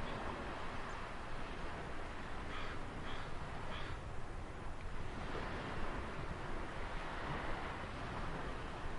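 Ocean surf washing steadily on a shore, with a bird giving three short harsh calls a few seconds in.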